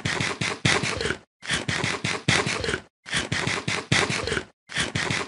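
Crunchy chewing of crispy fried chicken: a crackling, clicky eating sound in four bursts of about a second each, with short breaks between them.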